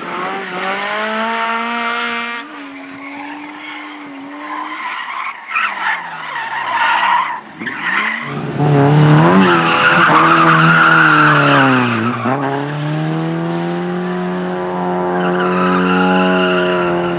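Race car engines at high revs. The first climbs, changes gear and falls away in pitch; a second, louder one arrives about halfway through, dips briefly near two-thirds of the way and climbs again.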